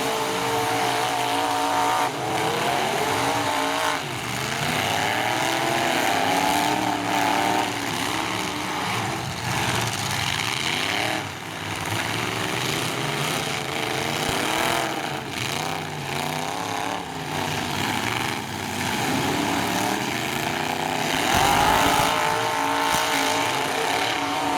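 Several full-size pickup truck engines revving, their pitch rising and falling over and over as the derby trucks accelerate and back off.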